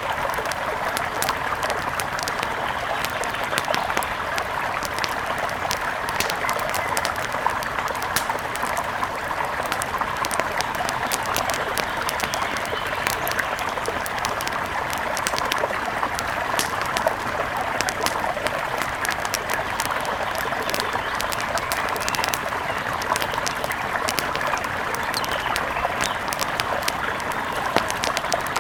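Layered nature ambience: a mountain river rushes steadily, a campfire crackles with many small sharp pops, and forest birds call.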